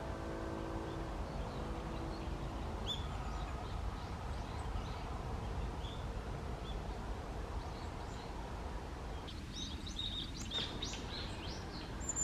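Small birds calling with short high chirps, scattered at first, then a quick run of many chirps over the last few seconds, over a steady low outdoor rumble. Piano music fades out near the start.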